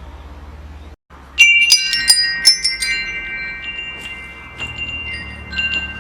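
Metal wind chime struck several times in quick succession about a second and a half in, the tubes ringing on in overlapping sustained tones, with a few lighter strikes near the end. A low rumble runs underneath.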